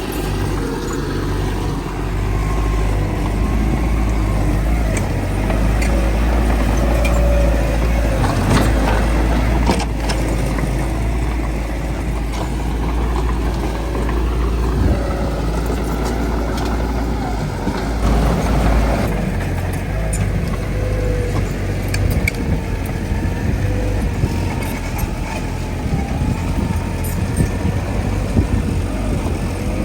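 Heavy diesel earthmoving machinery running steadily under load, a deep engine rumble with a wavering pitch and a few sharp clanks.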